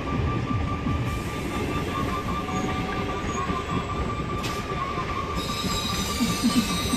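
Electric multiple-unit local train running along the track: a continuous rumble of wheels on rails with a thin, steady high tone over it, and one sharp click about four and a half seconds in.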